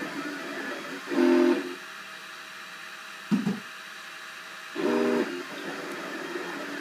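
Cubify 3D printer printing: a steady fan-like hiss with its stepper motors whining in short pitched bursts as the print head moves. Whines come about a second in, briefly around three seconds, and again near five seconds.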